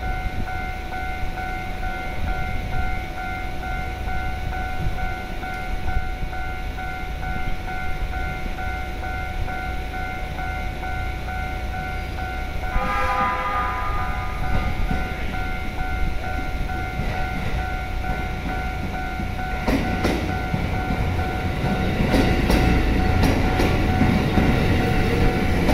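JR East E257 series electric train approaching and passing close by while a level crossing warning bell rings steadily. The train sounds a short horn about halfway through. In the last few seconds its wheels click rapidly over the rail joints and it grows louder as the cars go past.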